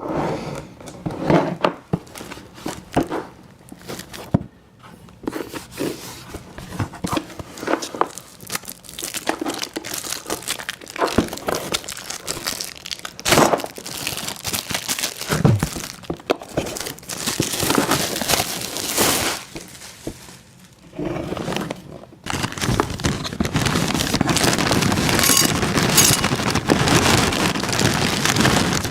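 Close-miked crinkling and crackling with many sharp clicks as sour gummy worms cereal is handled. About two-thirds through, this gives way to a denser, steady rushing.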